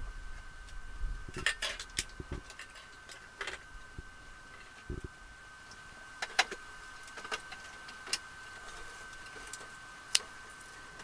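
Scattered small clicks and taps of a mascara tube and wand being handled, with a few soft low thumps in the first half. A faint steady high-pitched tone sits under them.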